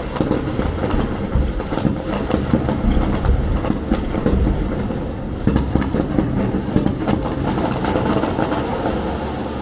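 Fireworks going off: a dense run of sharp crackles and pops over a continuous low rumble of bursts, easing off near the end.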